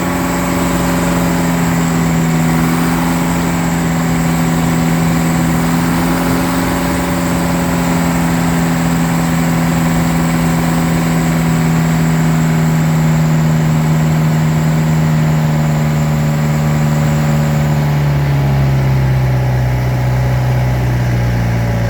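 A small tourist boat's engine running steadily, with a thin high whine above it. Near the end the engine drops to a lower note as it slows.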